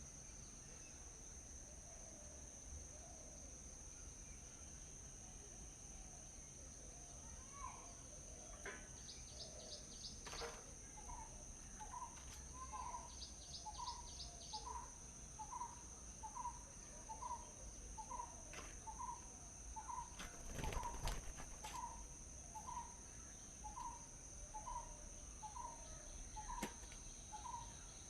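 Crickets or other insects keep up a steady high-pitched drone throughout. Over it, a bird repeats one short call about every three-quarters of a second for the second half, with a couple of brief rapid trills just before it starts.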